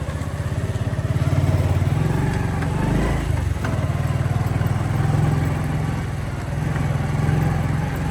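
Motorcycle engine running while riding, a fast steady putter that shifts briefly about three seconds in. The sound drops away abruptly near the end.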